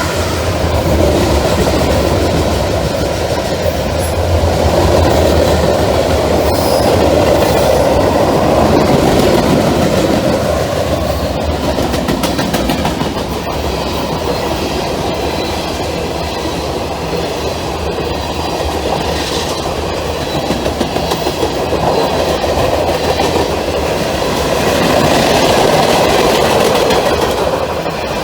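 Norfolk Southern freight train rolling past close by, its steel wheels clattering over the rails with a steady low rumble underneath.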